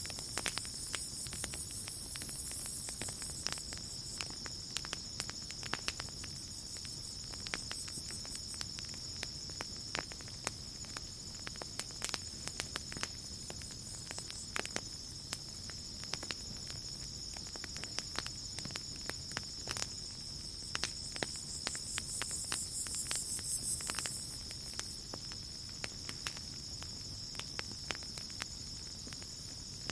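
Campfire crackling, with many scattered sharp pops, over a steady high chorus of crickets. A higher insect buzz swells in for a few seconds at the start and again about two-thirds of the way through.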